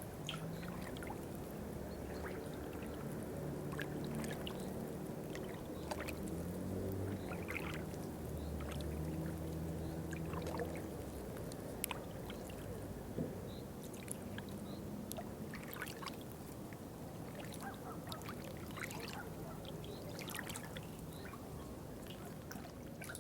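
Water dripping and trickling, with scattered sharp drops throughout. A low drone with steady tones sits underneath for roughly the first half, then fades out.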